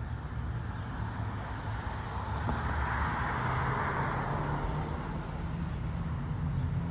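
Road traffic: a car passes by, its tyre and engine noise swelling and fading over a couple of seconds, over a steady low rumble.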